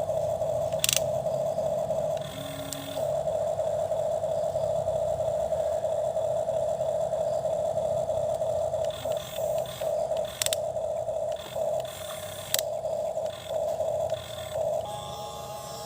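Small electric motor of a toy excavator whining steadily as it works. In the second half it stops and starts every second or so. A few sharp plastic clicks come through, about a second in and twice more later on.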